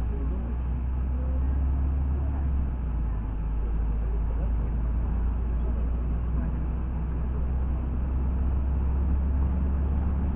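Inside a moving LiAZ 6213.65 articulated city bus: a steady low drone of the engine and drivetrain with road noise.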